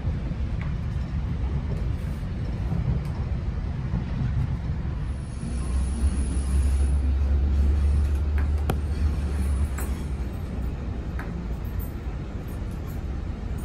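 Steady low rumble of a diesel-hauled commuter train in motion, heard from inside a Bombardier BiLevel coach. The rumble swells for a few seconds in the middle, with a few faint clicks.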